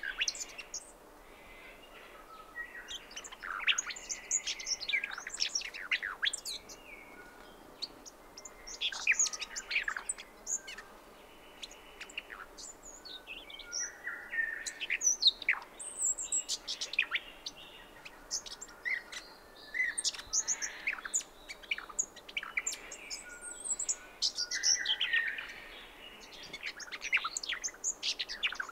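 Brown thornbill singing in bursts of quick, high, sweeping notes every few seconds, with other birds, gang-gang cockatoos, grey shrike-thrush and honeyeaters, calling in the background.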